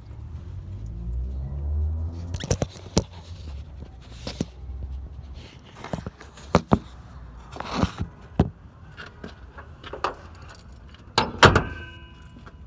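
A 2010 Ford Taurus that won't crank, making irregular clicks and clunks with some key jangling as a start is tried. A low hum fades out after the first few seconds, and a brief steady tone sounds near the end.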